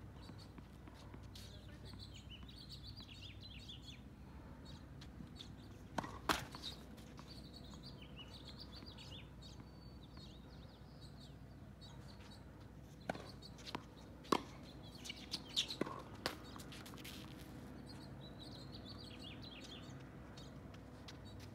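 Songbirds chirping in repeated phrases throughout, over a low steady outdoor background. Sharp knocks of a tennis ball stand out once about six seconds in and several times between about 13 and 16 seconds.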